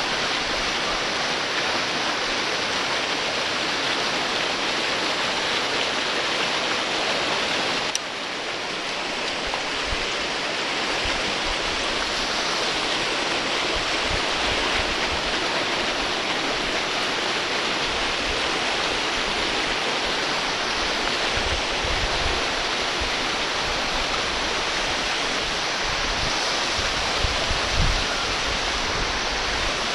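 Waterfall pouring: a steady, dense rush of falling water, with a brief dip about eight seconds in.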